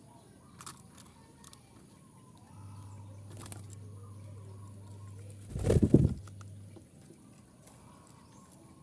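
Zebra dove (perkutut) cooing once, a short, low, pulsing call about halfway through, over a steady low hum.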